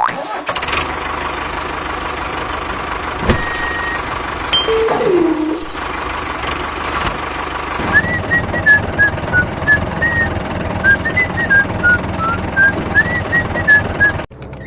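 Tractor engine running steadily. From about eight seconds in, a fast run of short beeps wanders up and down in pitch over it, like a musical vehicle horn.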